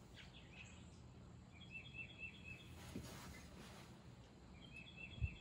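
Faint outdoor background with a bird chirping a quick run of short high notes twice, about a second and a half in and again near the end. A soft low thump comes just before the end.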